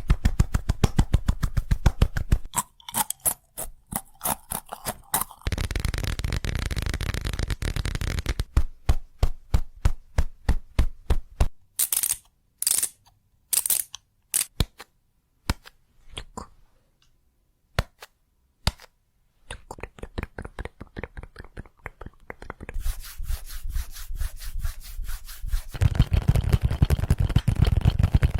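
A sequence of short ASMR sounds: runs of sharp clicks and taps, some fast and some slower and spaced, with two longer stretches of steady noise, one after about five seconds and one near the end.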